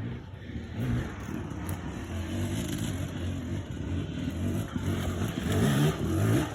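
Dirt bike engine running, its pitch rising as it revs up near the end, then dropping off suddenly.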